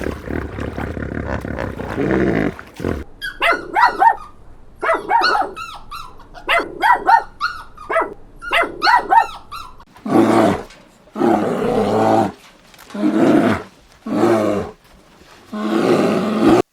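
Farm animal calls: a long rough call to begin, then a run of short, high-pitched calls, then five rough calls of about a second each.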